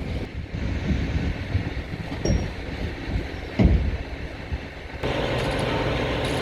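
Heavy truck engine noise: a low rumble with a couple of dull thumps, then about five seconds in it switches abruptly to a steady engine drone.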